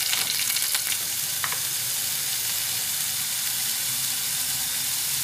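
Chicken pieces sizzling in hot oil in a clay pot: a steady frying hiss, with a few light clicks in the first second and a half.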